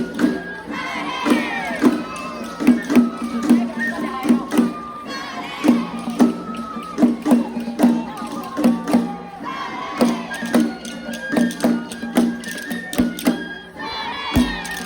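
Japanese festival hayashi music: a steady beat of drums and metal percussion under a flute-like melody of held notes. Voices call out briefly about a second in and again near the end.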